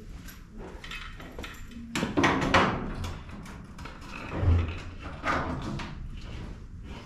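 A run of knocks and rattling clanks. The loudest stretch comes about two seconds in, and a low thud follows about halfway through.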